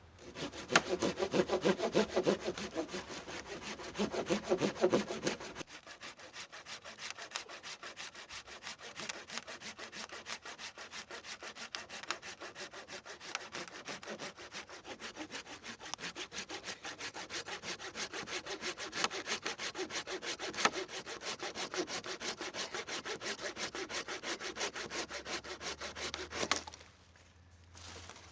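A hand saw cutting through a wooden branch in quick, regular back-and-forth strokes. The strokes are heavier for the first few seconds, then settle into a steady rhythm and stop abruptly near the end.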